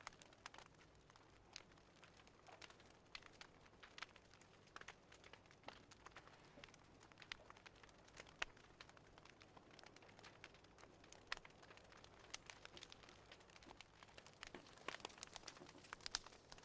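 Faint crackling of a wood fire from a fireplace recording: irregular small pops and snaps over a soft hiss, a little busier near the end.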